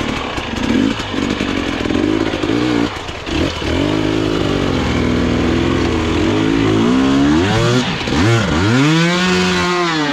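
Dirt bike engine revving hard and unevenly, its pitch rising and falling again and again under throttle, with one long climb and drop in revs near the end. There is a rattle of clatter in the first few seconds.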